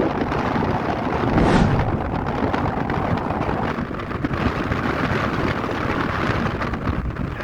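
Moving vehicle's road and engine noise with wind buffeting the microphone, and a brief whoosh about a second and a half in.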